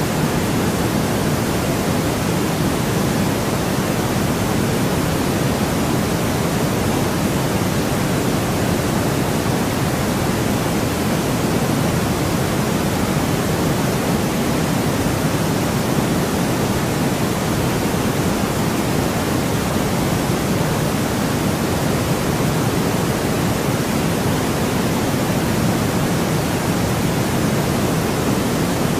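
Steady white noise: a constant, even hiss with no changes, fuller in the low range than the high.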